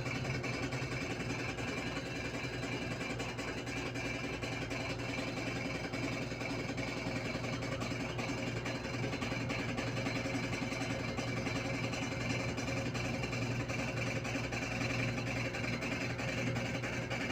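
LG Inverter washing machine running with a steady, noisy mechanical hum and rapid rattle. The uploader puts the noise down to a faulty transmission.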